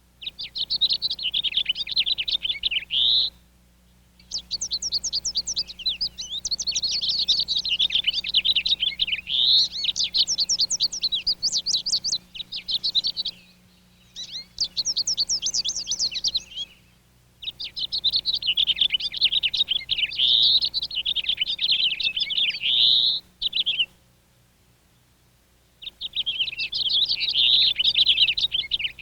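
A songbird singing long, rapid, jumbled warbling phrases of quick rising and falling notes, with short pauses between the songs.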